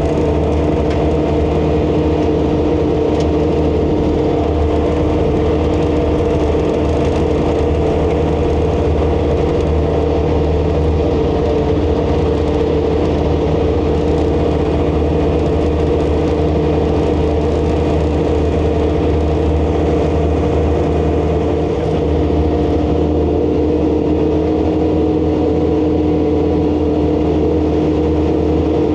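ASV RC100 skid steer running a WIFO high-flow hydraulic snowblower: a steady, unchanging engine and hydraulic drone with constant tones over a low rumble.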